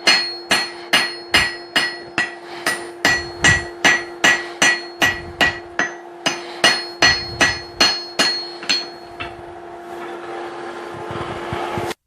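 Lighter hand hammer striking hot steel on an anvil in steady forging blows, about two and a half a second, each with a ringing anvil tone, stopping about nine seconds in. A steady hum runs underneath.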